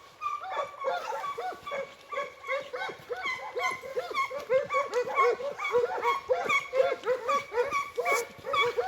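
A pack of segugi (Italian scent hounds) giving tongue in chorus: many overlapping yelping cries, several a second. It is the hounds' cry on the trail as they work out the line to a hare's form.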